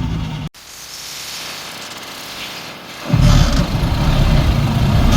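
Heavy diesel earthmoving machinery running with a steady low engine drone, broken about half a second in by an abrupt cut to a quieter, hissy stretch, then the loud low engine sound resumes just after three seconds.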